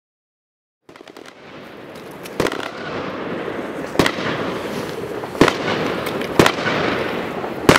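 Fireworks going off: a hissing, crackling noise that starts about a second in and grows steadily louder, with five sharp bangs spaced about one to one and a half seconds apart.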